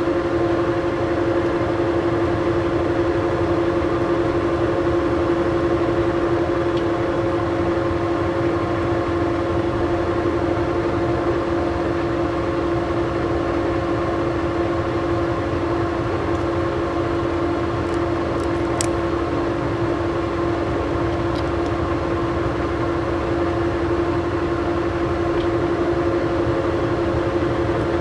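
Old Monarch engine lathe running steadily under power, its geared headstock giving a constant whine, while a 5/8-11 thread is single-point cut. A faint tick near the end.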